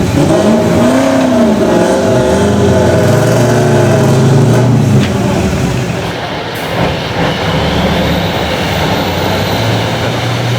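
Car engines running, with one revving up and back down about a second in.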